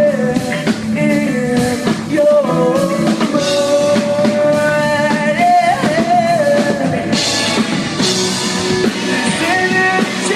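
Live rock band playing loudly with drums and electric guitar, a long held, bending melodic line carried over the band; the sound grows brighter and busier about seven seconds in.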